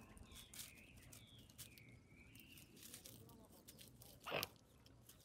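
A swan calls once, a short loud call about four seconds in, with fainter, thin rising and falling calls before it.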